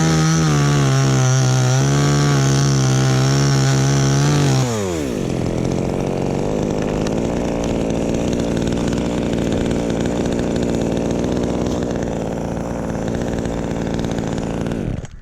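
Two-stroke chainsaw held at high revs for about four and a half seconds, then dropping to a lower, steady speed, and stopping near the end.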